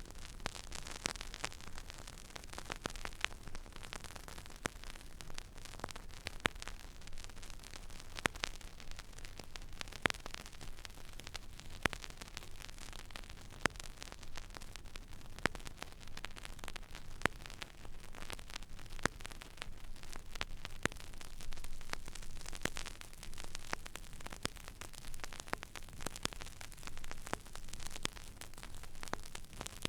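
Stylus tracking an empty vinyl record groove: steady surface hiss with irregular crackles and sharp pops, over a low steady hum.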